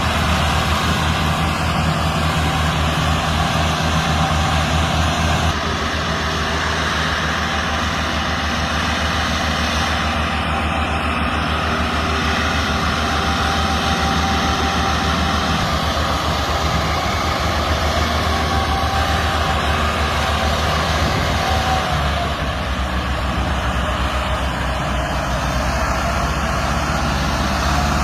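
Tractor diesel engines running steadily under load, pulling a stuck vehicle free.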